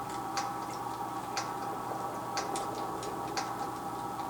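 Clock ticking, a sharp tick about once a second with fainter ticks between, over a steady hum.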